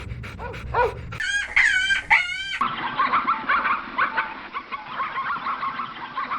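Farm-animal calls in quick clips cut abruptly one after another: first a run of short repeated calls, then a few high, bending calls, and from about two and a half seconds in a flock of chickens clucking together in a dense, continuous chatter.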